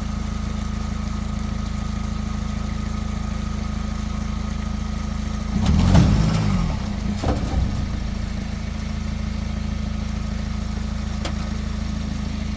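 Vehicle engine running steadily with a low, even hum. A brief louder sound rises over it about six seconds in and fades by about eight seconds.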